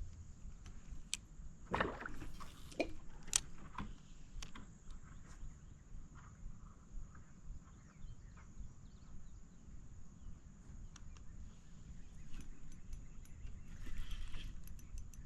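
Scattered light clicks and knocks of fishing gear being handled aboard a kayak, over a low steady rumble; a few are a little louder, about two to four seconds in, and a run of quicker ticks comes near the end.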